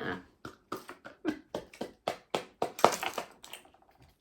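A quick run of short taps and clicks, about three or four a second.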